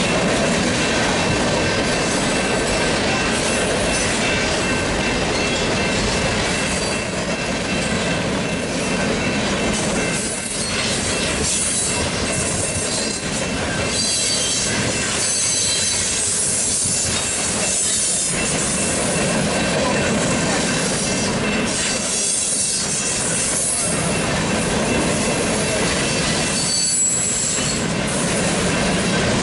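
Freight cars (tank cars and covered hoppers) rolling steadily through a grade crossing, with wheels squealing on and off and the crossing bell ringing.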